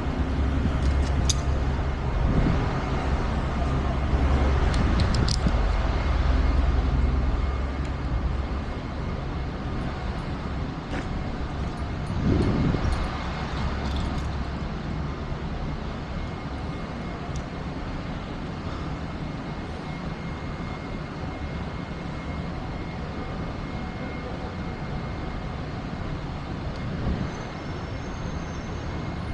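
Car engines and traffic rumbling, a low steady sound loudest for the first several seconds, easing off, with another brief swell about twelve seconds in.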